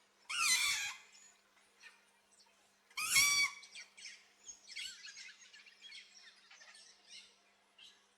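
Two loud, harsh parrot squawks about three seconds apart, typical of a green-winged macaw. They are followed by a run of softer, shorter chirps and chatter from the aviary birds.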